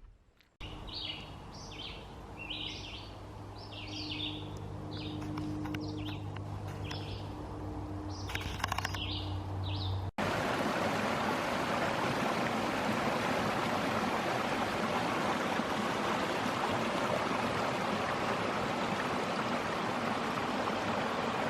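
A bird chirping about ten times over a low steady hum; about ten seconds in it cuts abruptly to a steady rush of flowing water.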